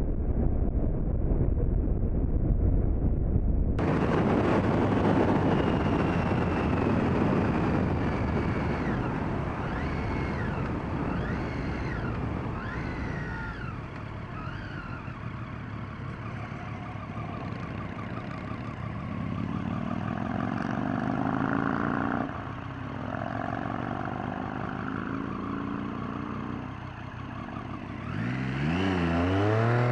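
Riding a 2014 Triumph Street Triple: wind rushing over the microphone with the bike's three-cylinder engine running under it. A siren wails for several seconds partway through, and near the end the engine pitch climbs steeply as the bike accelerates.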